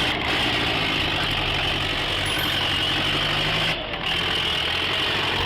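Tractor engine running steadily, with a short break in the sound a little under four seconds in.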